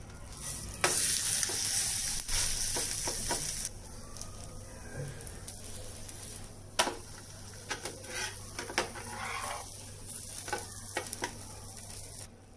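Wheat egg dosa frying on a nonstick tawa as it is turned with a steel spatula: the sizzle jumps loud about a second in and stays loud for about three seconds, then settles to a lower hiss. Sharp taps and scrapes of the spatula against the pan come through, one loud one near the middle and several more after.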